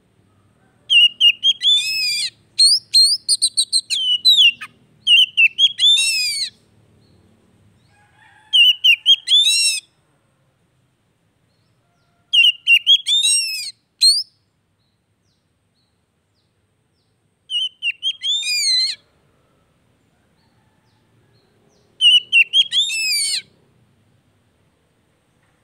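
Oriental magpie-robin (kacer) singing in short, repeated phrases, each a few warbling notes followed by quick rising whistles, with pauses of a few seconds between phrases; the first phrase is the longest.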